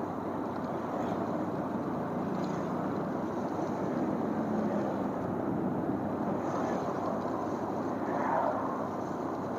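Motorcycle riding along a road, its engine running steadily under a constant rush of wind noise, with a brief louder swell about eight seconds in.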